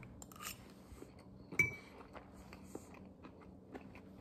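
A mouthful of fried rice being chewed, quietly, with faint small clicks, and a light metal clink of a fork, with a short ring, about a second and a half in.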